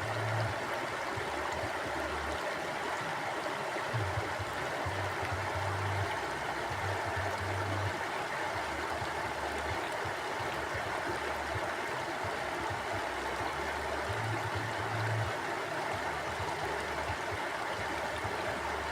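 Mountain stream flowing steadily over rocks, an even rushing of water with a low rumble that comes and goes.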